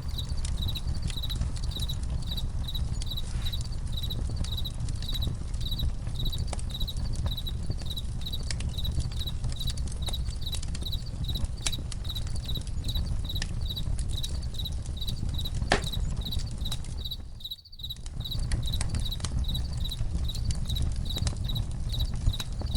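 Campfire crackling, with scattered sharp pops over a low rumble, while crickets chirp in a steady, evenly pulsing high rhythm. The whole mix dips briefly about three-quarters of the way through.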